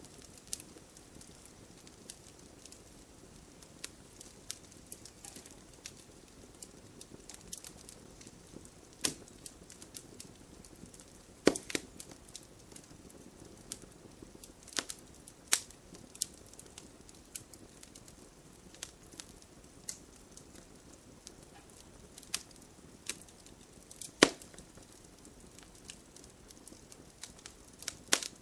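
Wood fire crackling: a soft low hiss of burning with irregular sharp snaps and pops, two louder pops about a third of the way in and again in the last stretch.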